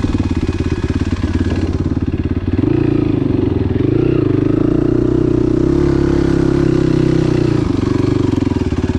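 Enduro motorcycle engine running on the trail, close to the microphone. Its pitch rises a few seconds in, holds steady, then drops shortly before the end as the throttle eases.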